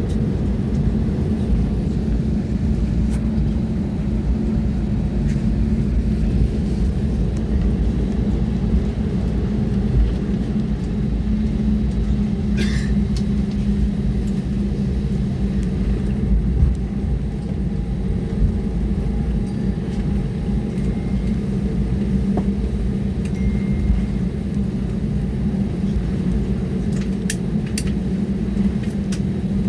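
Airliner cabin noise during landing: the steady low rumble of the jet engines and airflow heard inside the cabin, with a constant hum and a few brief clicks.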